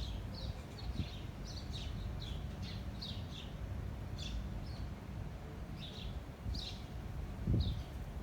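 Small birds chirping in short high notes, about two a second at first and sparser in the second half, over a low rumble of wind on the microphone that swells in a gust near the end.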